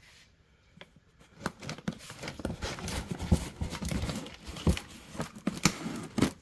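Packaging being opened by hand: crinkling and tearing of paper and cardboard, with irregular rustles and sharp clicks that begin about a second in and stop just before the end.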